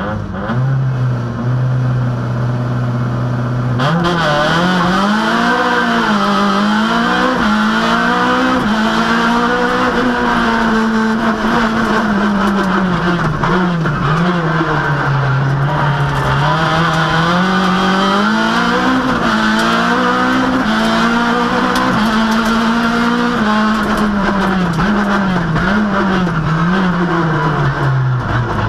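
Citroën Saxo rally car's engine heard from inside the cabin, held at steady revs, then louder about four seconds in as the car sets off hard, the revs rising and falling repeatedly as it is driven flat out along the stage.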